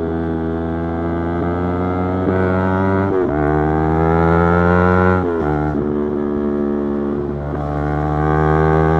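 Yamaha YZF-R3's 321 cc parallel-twin engine under way, its pitch climbing steadily as it pulls. The note breaks sharply twice, about three seconds in and about five seconds in, as the revs change with gear shifts.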